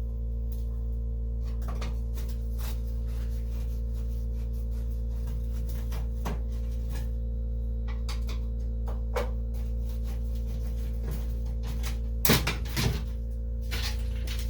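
Steady electric machine hum from wood shop machinery, starting abruptly and holding an even level. Small clicks and knocks of hand tool work on car body parts sound over it, with louder knocks about 12 seconds in.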